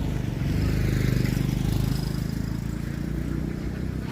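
An engine running with an even low throb, louder for a second or so near the start and then steadier.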